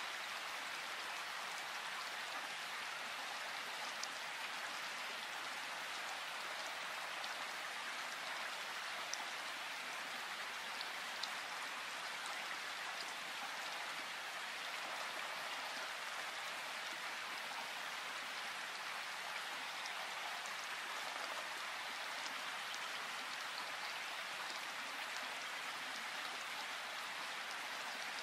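Steady rain in a forest: an even hiss of falling rain with a few sharper single drop ticks scattered through it.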